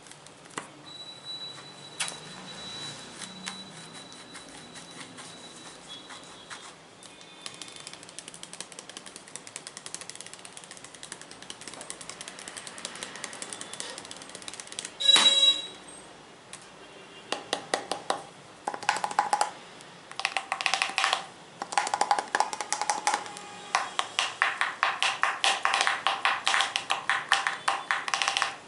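Fingers tapping on assorted objects: sparse clicks at first, one loud ringing ping about halfway through, then fast runs of rapid taps with a resonant ring through the second half.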